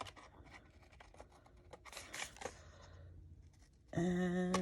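Faint snips and rustles of paper being cut with scissors and handled, a few scattered small clicks. A woman starts speaking near the end.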